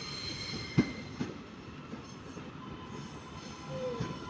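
Northern passenger train drawing into the platform: a steady high-pitched squeal over rumbling rail noise, with two sharp clunks about a second in.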